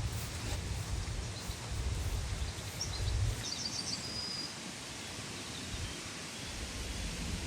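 Rural outdoor ambience: a steady hiss with a low rumble that drops away about halfway through, and a few small birds chirping briefly in the middle.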